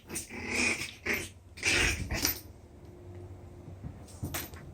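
Schnauzer–Maltese cross puppies making short bursts of play yaps and grumbles, clustered in the first two and a half seconds, then going quieter.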